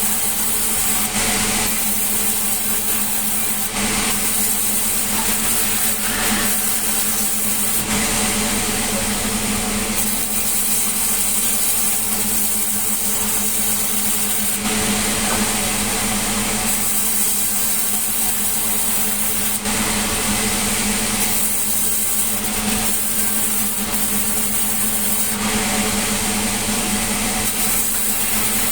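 Sawmill saw and its driving motor running at a steady hum, with stretches of louder, harsher noise every few seconds as the blade cuts through wood.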